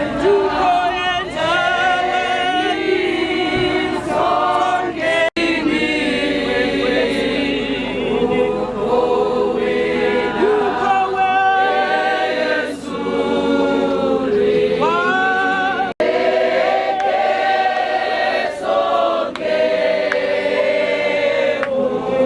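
A choir of many voices singing together, with two instant breaks in the sound at about five seconds and sixteen seconds in.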